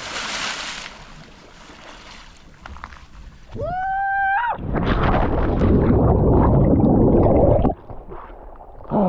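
A person's short yell, then about three seconds of loud rushing and gurgling water as the jumper carrying the camera leaps from a cliff and plunges into the water. The noise cuts off suddenly.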